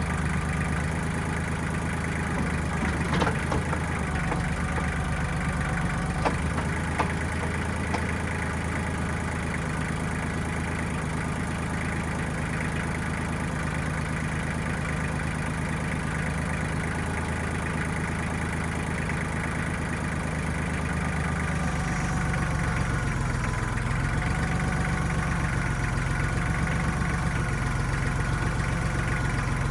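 Diesel engine of a 1995 Kubota backhoe running steadily, with a few sharp knocks in the first eight seconds. About two-thirds of the way through, the engine note shifts and grows slightly louder, as under a change of load.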